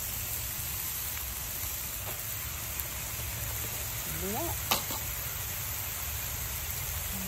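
Chicken and vegetables sizzling steadily in a cast iron skillet over hot campfire coals, with a sharp tap about four and a half seconds in.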